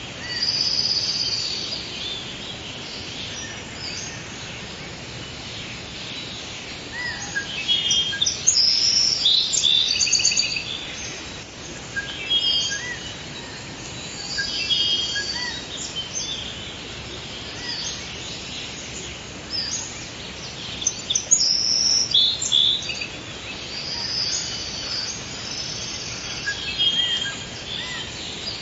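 Forest ambience: several birds chirping and trilling in short calls over a faint steady background hiss.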